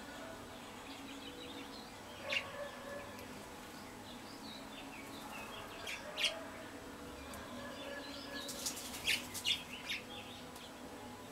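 Small wild songbirds chirping, with a few short, sharp call notes standing out about two seconds in, around six seconds, and twice close together near nine seconds.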